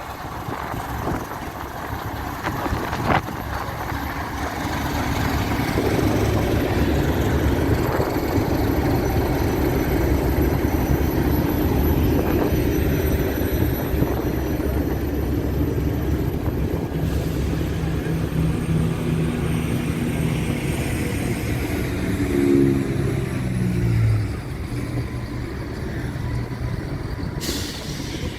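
Heritage diesel train engine running, growing louder over the first several seconds; near the end its pitched engine note slides down.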